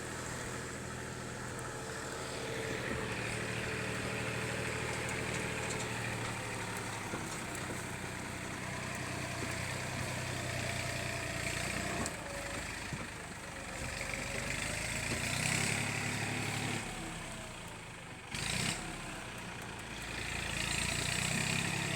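Small farm tractor's engine running steadily on the move while hauling a heavy load of fodder, its note rising and falling a little, with a brief louder noise about three-quarters of the way through.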